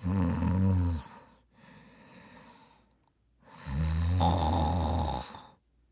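A person snoring: two long, low snores about three and a half seconds apart, each followed by a quieter breath out.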